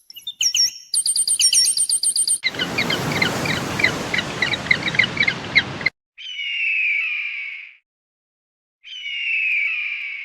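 A run of separate bird-call clips. First come rapid, high repeated chirps. Next, many short chirps sound over a hiss, like a flock. Last come two long, slightly falling squawking calls with a pause between them.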